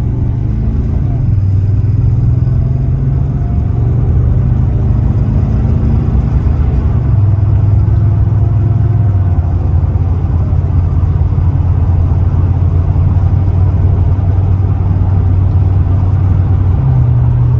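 Mini truck engine running under way, a steady low hum that steps in pitch a few times, then cuts off suddenly at the end.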